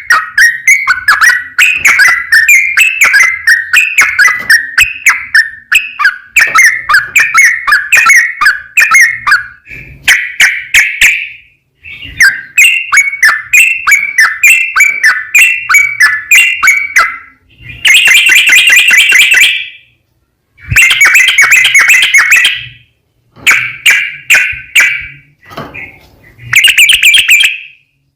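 Yellow-vented bulbul (trucukan) singing a long, fast run of bubbly notes, several a second. In the second half the song breaks into shorter bursts with brief pauses between them.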